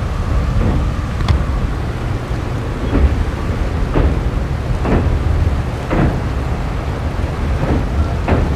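Passenger train running over a bridge, heard from an open coach door: a steady low rumble with wind buffeting the microphone. From about three seconds in, a sharp clack comes roughly once a second as the wheels pass rail joints.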